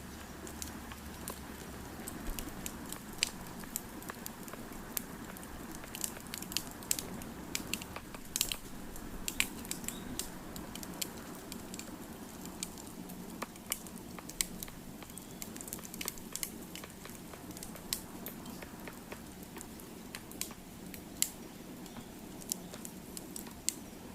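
Wood fire crackling: irregular sharp pops and snaps, several a second at times, over a steady low rumble of burning.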